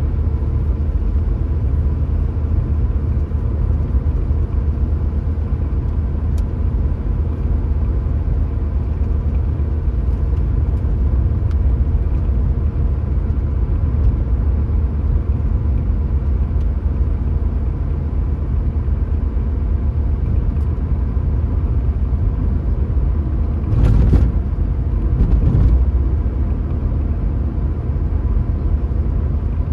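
Car driving along a road: a steady low rumble of engine and tyres. Two brief louder rushes of noise come about three-quarters of the way through.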